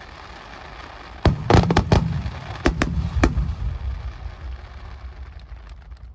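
Aerial fireworks shells bursting: a quick run of loud bangs starting about a second in and a few more around three seconds, then a lingering low rumble with scattered crackles.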